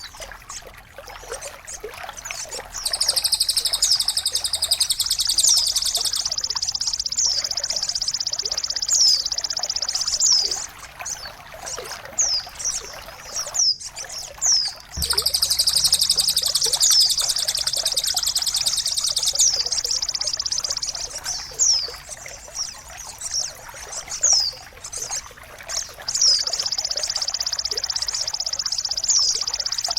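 Songbird tutoring (masteran) audio: high, fast trills in long stretches, with short sweeping chirps in between, over a steady trickle of water. The sound breaks off briefly about halfway through.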